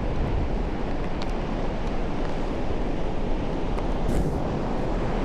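Wind buffeting the microphone over the steady rush of ocean surf, with a few faint ticks.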